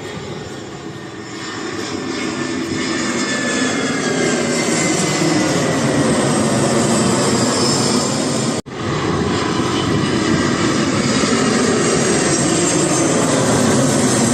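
A landing airliner's engines pass close overhead. The noise swells over the first few seconds, with high whining tones sliding down in pitch, then stays loud. The sound cuts out for an instant about two-thirds of the way through.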